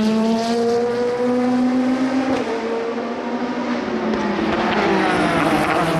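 Le Mans endurance race cars at speed. One engine climbs in pitch through a gear change, then a second car comes through with its pitch falling as it goes by.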